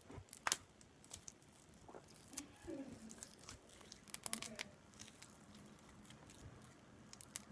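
Homemade flour-and-dish-soap slime being squished and pulled apart by hand close to the microphone: faint sticky crackles and pops, with a few sharper clicks.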